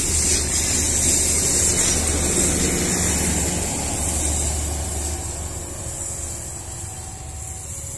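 Last carriages of a passenger train rolling past and pulling away, with the steady wheel-on-rail noise and the engine hum of the diesel generator in the rear power car. The sound fades through the second half as the train recedes.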